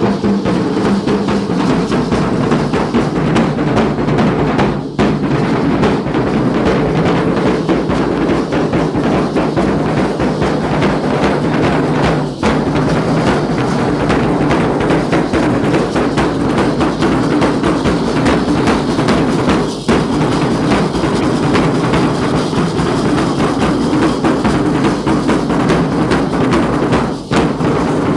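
Drums of a Guadalupana danza group beating steadily in a dense, continuous rhythm, with a brief break about every seven and a half seconds.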